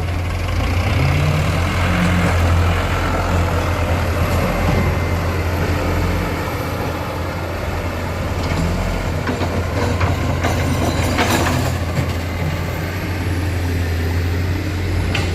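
Diesel engines of an excavator and dump truck running steadily with a deep drone, with a clatter about ten seconds in and a sharp knock near the end.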